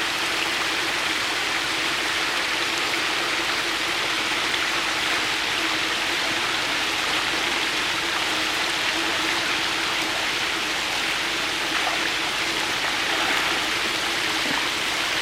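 Steady rush of running or splashing water at a catfish tank, with a faint steady hum under it.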